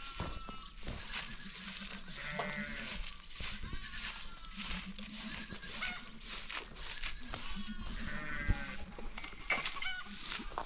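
A flock of sheep and goats bleating, many calls overlapping and wavering in pitch, with many short knocks and rustles among them.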